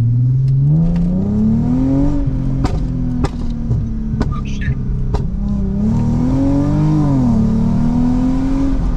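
Lexus IS350's 3.5-litre V6 with an MForce pops-and-bangs tune revving up and letting off twice. After the first let-off a few sharp exhaust pops crack out over the engine sound.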